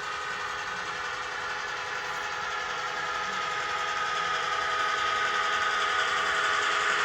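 N scale model diesel locomotive running with onboard sound: a steady engine note from its small speaker, growing gradually louder.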